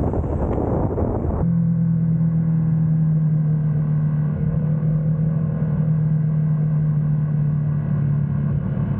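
Motorcycle engine running at a steady speed on the move, a constant low hum. A loud rush of noise covers it for about the first second and a half, then stops abruptly.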